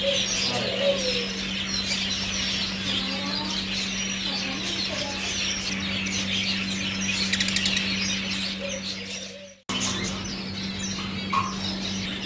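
Many small birds chirping at once in a dense, unbroken chatter, over a steady low hum. The sound cuts out for a moment about two-thirds of the way through, then the chirping resumes.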